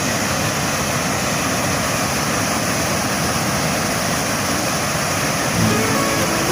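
Waterfall: a steady rush of falling water. Music with held notes comes in near the end.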